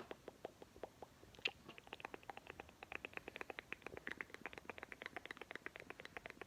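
Sharp, scattered ticks of storm precipitation striking a hard surface. They start sparse and come faster and denser, several a second by the end.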